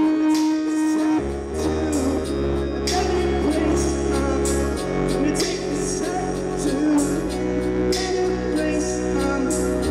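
Live music: a song sung over instrumental backing, with held low bass notes that change every few seconds.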